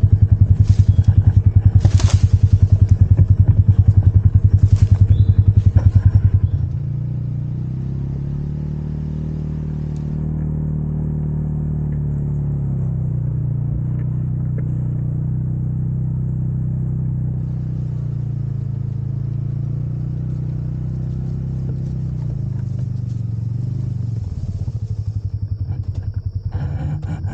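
Polaris Ranger Midsize UTV's single-cylinder engine running under way, its pitch rising and falling with the throttle. It is louder, with a few knocks and clatters, for about the first six seconds, and it cuts off abruptly at the very end.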